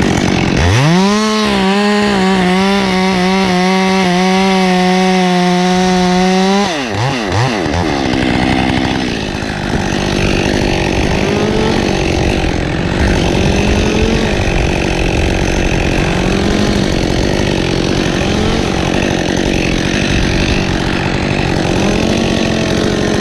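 Chainsaw revving up to full throttle about a second in and holding a steady high pitch for about six seconds. The pitch then drops sharply, and the saw keeps running with a rougher, wavering tone, as when it is cutting into wood.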